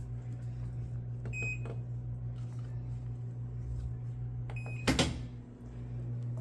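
Top-load washing machine's control panel beeping twice over a steady low electrical hum, with one sharp knock about five seconds in.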